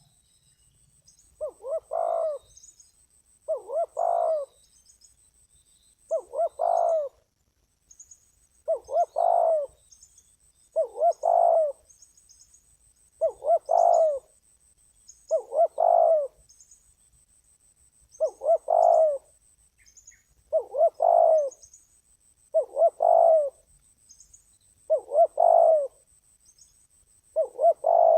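Spotted dove cooing its repeated call phrase, about twelve times at an even pace of one every two seconds or so, each phrase about a second long. It is a trained decoy bird calling. Faint high chirps and a thin steady high tone run underneath.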